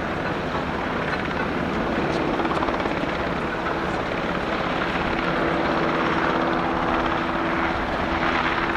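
UH-60J helicopter in flight: steady rotor and turbine noise with a constant hum.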